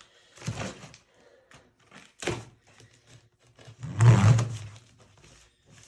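Knocks and thuds from handling a wooden shipping crate, with a louder, heavier thud about four seconds in.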